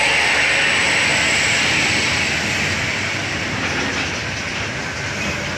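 Heavy truck's diesel engine labouring up a steep climb, with a loud hissing whine over a low rumble that grows quieter from about two seconds in.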